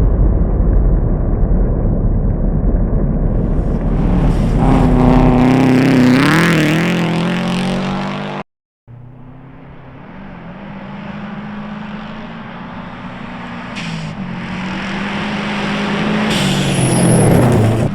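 Rally car engines running at speed. One car passes loudly, its engine note rising and falling as it revs, and fades away. After an abrupt cut, a second car is heard approaching and growing louder toward the end.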